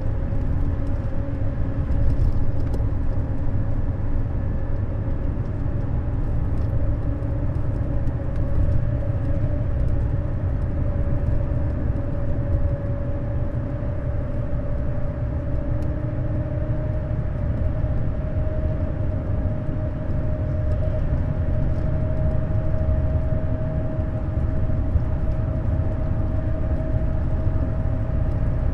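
Neoplan Skyliner N 1122/3C double-decker coach driving at a steady pace: a continuous low engine and road rumble with a whine that slowly rises in pitch over the second half.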